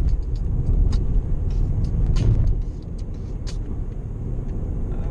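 Car driving, heard from inside the cabin: a steady low rumble of road and engine noise, with scattered small clicks and rattles.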